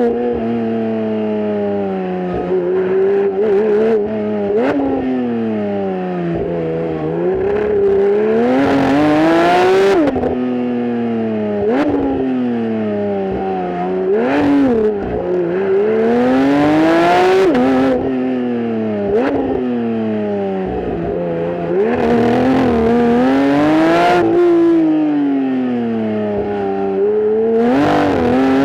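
Porsche 992 GT3's naturally aspirated 4.0-litre flat-six pulling hard through the gears: the engine note climbs in pitch again and again, drops sharply at each change, and sinks back between pulls. Brief sharp rev spikes come in between, and a harsh rasp rises at the top of each pull.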